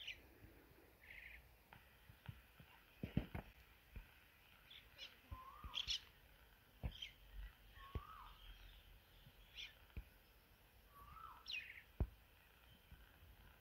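Faint bird calls: a short, hooked call repeated about every two and a half to three seconds, with higher, quick chirps in between. A few faint clicks.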